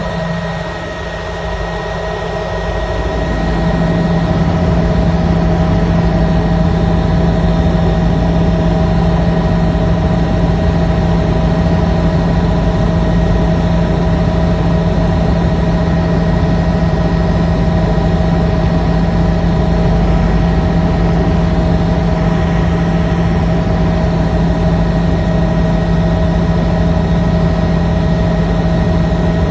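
Helicopter running steadily in flight: a strong low hum with several steady whining tones over a rumble, growing louder over the first few seconds and then holding even.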